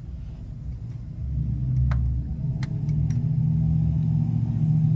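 A motor vehicle's engine running with a low rumble, getting louder from about a second in as the vehicle comes closer. There are a few light clicks along the way.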